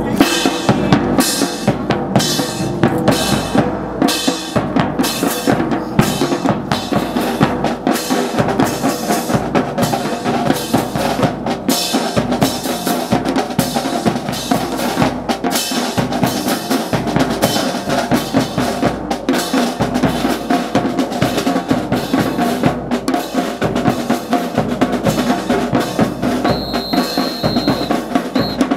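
Marching snare and bass drums playing a steady, rapid cadence of sharp strikes. Near the end a high steady tone sounds for about a second and a half, then once more briefly.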